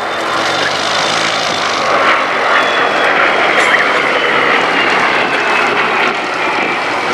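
Propeller-driven Second World War warbirds flying past: the Bristol Blenheim's Mercury radial engines and the Spitfire Mk Is' Rolls-Royce Merlins. A loud, steady drone with its pitch slowly falling as the formation passes.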